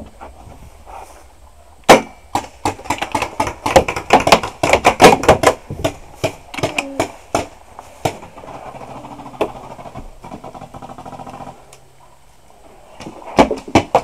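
Paintball markers firing: a rapid, irregular string of sharp pops, several a second, over about five seconds. Then a low steady hum for a few seconds, and two more pops near the end.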